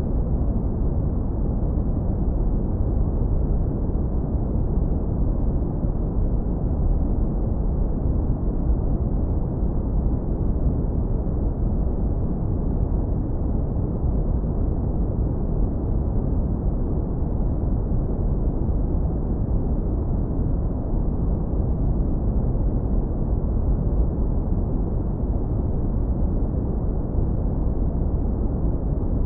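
Brown noise, steady and unchanging: a deep, warm rumble with almost nothing in the highs.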